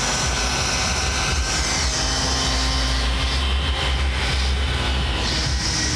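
Car audio subwoofer system playing a bass demo: very loud, deep, steady bass, heaviest from about two to five seconds in, with a hissy haze over it.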